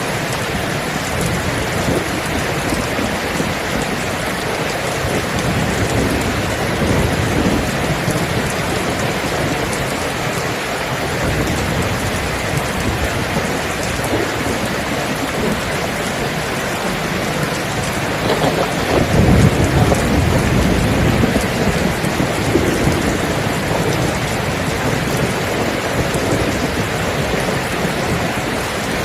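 Steady heavy rain falling, with a rumble of thunder rising about two-thirds of the way through and slowly fading.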